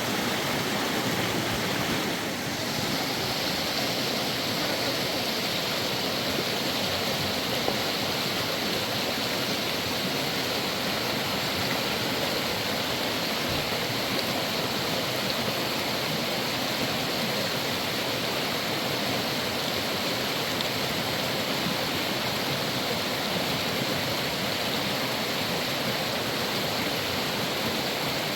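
River water rushing steadily, an even, unbroken hiss of fast-flowing current; the sound turns slightly brighter about two seconds in.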